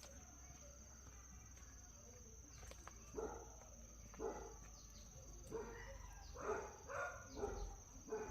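Several short animal calls, faint and spaced apart, starting about three seconds in and coming more often near the end.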